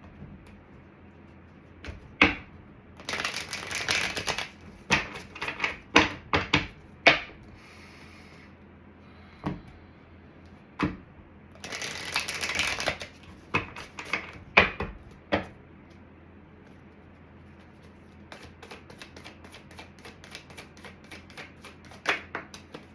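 Tarot cards being shuffled by hand: sharp slaps and snaps, two longer riffles about three and twelve seconds in, and a run of quick light clicks near the end.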